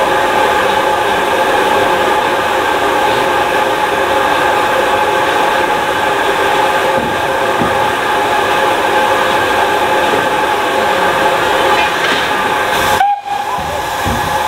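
Ex-Somerset & Dorset Joint Railway 7F 2-8-0 steam locomotive 53809 letting off steam: a loud, steady hiss with several ringing tones held throughout, cut off abruptly near the end.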